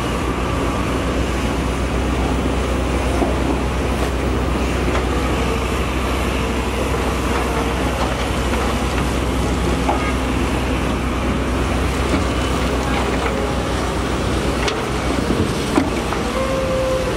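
Diesel engines of heavy earthmoving machinery running, a steady low rumble with a few faint knocks and clanks.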